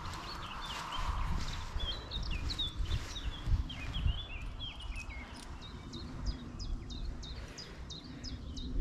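Wild birds singing in woodland: a busy mix of quick chirps and short whistled notes, with a faster run of high, sharp notes near the end. A low rumble runs underneath.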